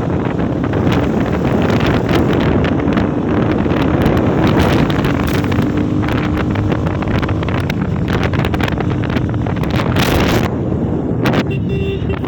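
Wind buffeting the microphone on a moving motorcycle, loud and steady, with the engine's even drone underneath.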